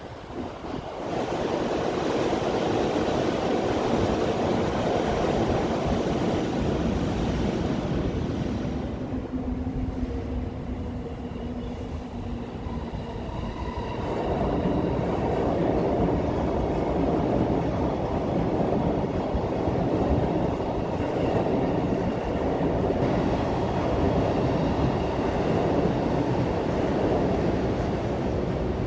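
Electric commuter trains running on the tracks, a continuous rumble of wheels on rail. The sound eases off from about nine to thirteen seconds in, then builds again as a sky-blue-striped Keihin-Tohoku Line train rolls through.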